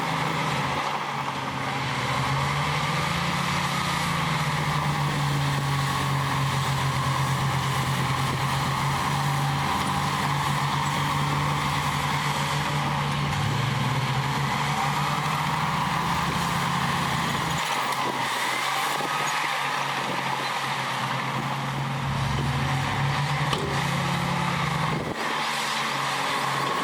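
Heavy diesel engine of earthmoving machinery running steadily, its note shifting up and down in pitch several times as it works.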